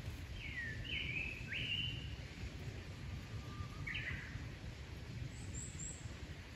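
A wild bird calling with short whistled notes that slide down and up in pitch, one run of phrases in the first two seconds and another about four seconds in, with faint high chirps near the end. A steady low outdoor rumble runs underneath.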